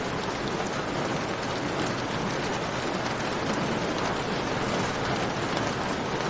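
Steady rain hiss falling in a cave, mixed with the small crackles and pops of a campfire.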